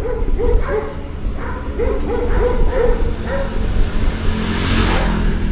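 A dog barking repeatedly in short yaps over a steady low rumble; a whoosh swells and fades about four and a half seconds in.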